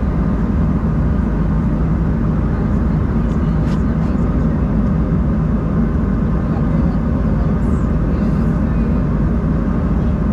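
Steady cabin roar inside an Embraer 190-E2 airliner: engine and airflow noise holding at an even level.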